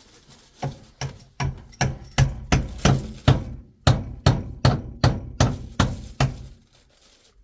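A hammer strikes repeatedly, about three blows a second for some six seconds, as on roof framing, with a short metallic ring on some blows. Then it stops.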